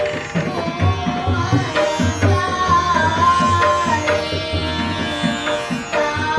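Live Indian classical singing: a melodic vocal line that bends between notes and holds one long wavering note in the middle, over repeated low drum strokes.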